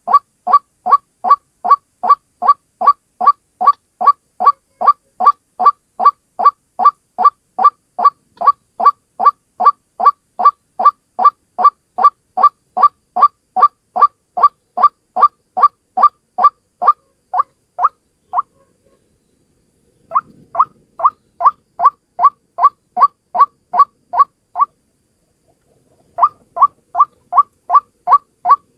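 White-breasted waterhen calling: a fast, even run of short harsh notes, about two to three a second, that breaks off twice for about two seconds before resuming.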